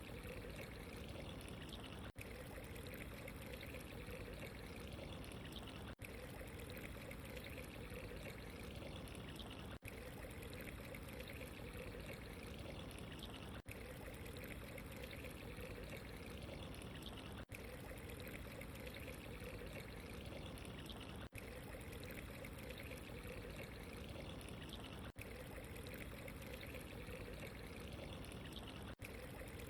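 Steady running, trickling water, played as a short loop: the same stretch repeats about every four seconds, each repeat marked by a brief dropout.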